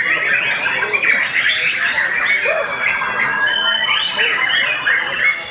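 Many caged white-rumped shamas (murai batu) singing against each other at once in a songbird contest: a dense, overlapping chorus of whistles and rapid notes.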